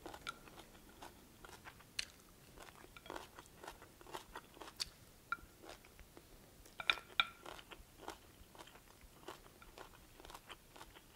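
Chewing and biting a mouthful of kohlrabi-noodle stir-fry with carrots, ham and bean sprouts: soft, irregular crunches, with a louder cluster about seven seconds in.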